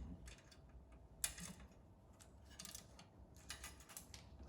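Small metal key and lock clicking and rattling as the key is fitted and turned in a garage door's manual release lock, with a sharper click about a second in and a run of small clicks near the end.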